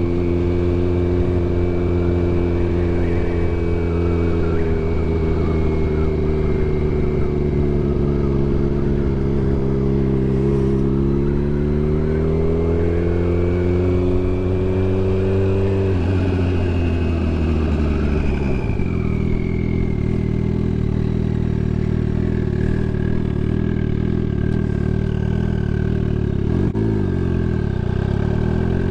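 Turbocharged Suzuki Hayabusa inline-four engine running under the rider at low road speed. Its pitch sags and climbs back, falls off about two-thirds of the way through as the bike slows, and dips briefly near the end, with a thin high whine running above the engine note.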